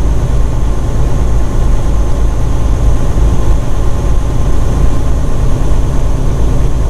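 Steady low drone of a semi truck's engine and road noise, heard from inside the cab.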